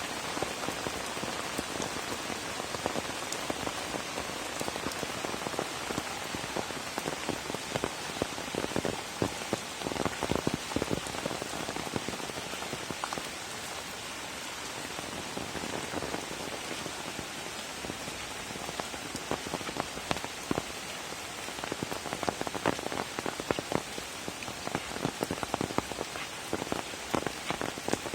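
Steady rain falling, with a dense hiss and many close, irregular drops tapping on nearby surfaces.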